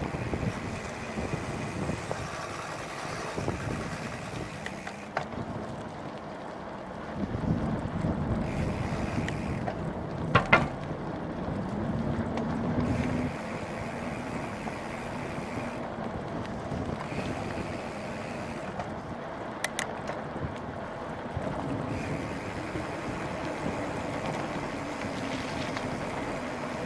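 Wind buffeting the microphone during a bicycle ride into a headwind, with the rumble and jolting of the bike on a rough trail. A couple of sharp clicks come about ten and twenty seconds in.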